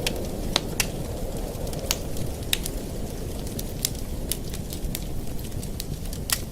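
Wood fire in a fireplace crackling, with irregular sharp pops and snaps, roughly two a second, over a steady low rushing noise.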